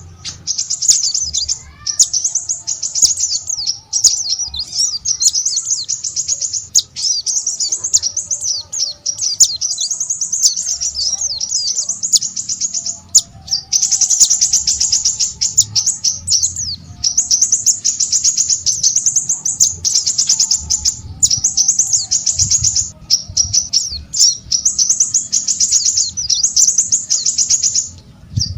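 Small songbird singing a fast, high-pitched twittering song in long runs broken by brief pauses.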